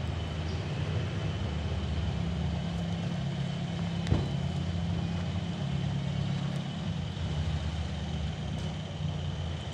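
Engine of a homemade sawmill running steadily, with a steady high whine above it and a single sharp knock about four seconds in.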